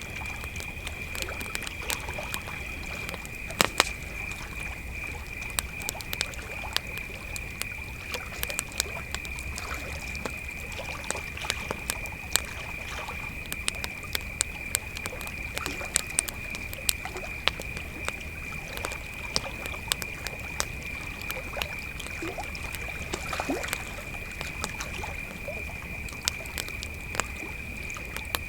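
Crickets chirping in a continuous high, steady trill, over a wood campfire crackling and popping with frequent sharp snaps.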